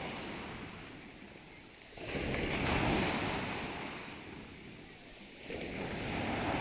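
Sea surf: waves breaking and washing in, swelling and fading about every three seconds.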